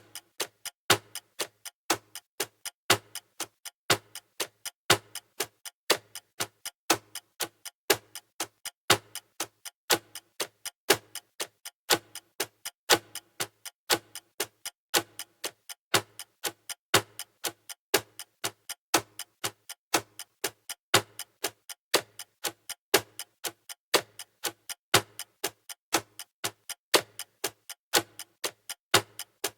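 Clock-style ticking of a countdown timer, an even, quick tick about four times a second with a louder tick every two seconds.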